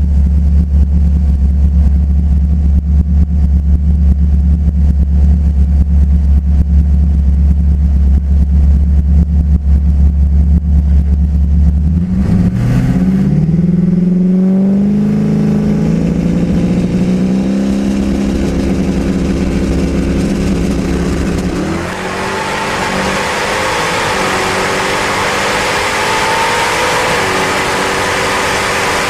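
Twin-turbo Mustang drag car: a heavy, choppy idle for about twelve seconds, then the engine revs up and accelerates hard, its pitch climbing in steps through the gears over about ten seconds, followed by a wider, hissier engine sound that keeps rising.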